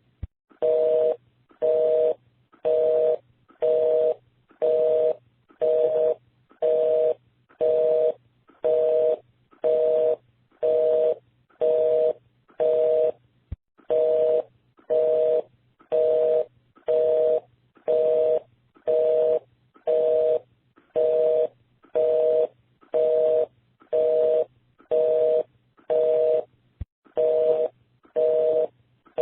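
Telephone busy signal: a two-tone beep switching on and off about once a second, half a second on and half a second off, the sign that the called line is engaged.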